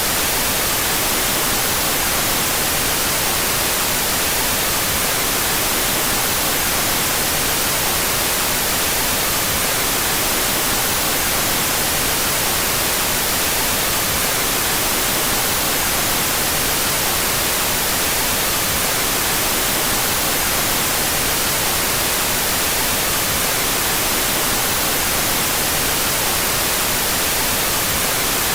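Steady white noise, an even hiss with no changes, generated with its stereo channels out of phase.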